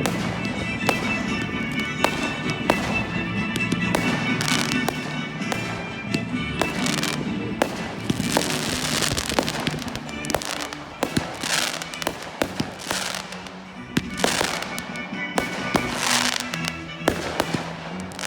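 Fireworks going off: repeated sharp bangs and several bursts of crackling, with music playing underneath.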